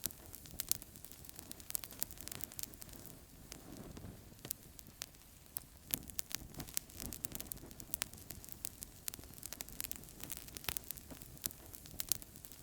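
Wood fire crackling in a fireplace: frequent irregular sharp pops and snaps over a steady low rush of the flames.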